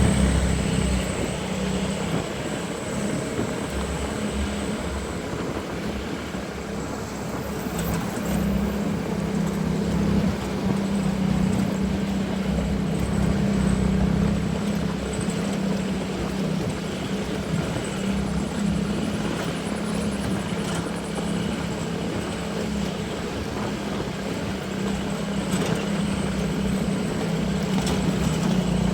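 Isuzu Elf minibus's diesel engine running steadily, a continuous low drone with no breaks or gear changes.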